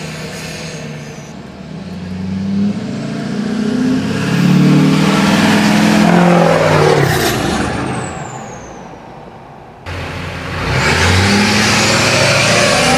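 Duramax LLY 6.6-litre V8 turbo-diesel with a 5-inch straight-pipe exhaust accelerating past, loud and deep, with a high whistle that falls in pitch as it goes by about seven seconds in before fading. After an abrupt cut about ten seconds in, it comes back loud under acceleration again.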